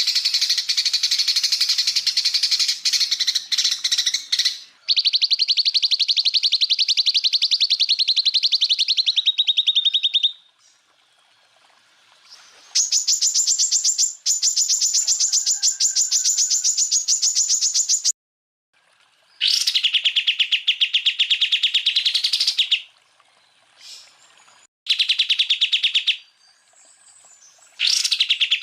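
Cucak ijo (greater green leafbird) singing in long, rapid trills of fast repeated notes, about half a dozen runs of one to five seconds with short pauses between. These are the 'tembakan' rapid-fire phrases used in masteran recordings to train cage birds.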